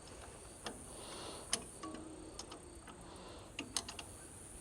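A few scattered light clicks and taps, with a cluster of three near the end, over crickets chirping steadily in the background.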